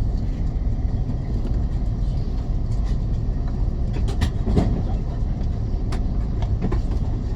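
Steady low rumble inside the carriage of a CR400BF-Z Fuxing high-speed train, with a few faint clicks about four and six seconds in.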